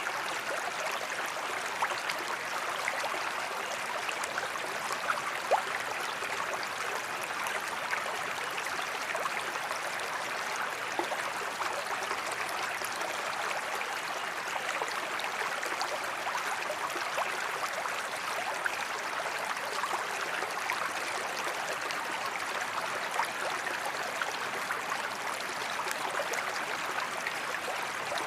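Waterfall: a gentle, steady rush of falling water with small splashes scattered through it.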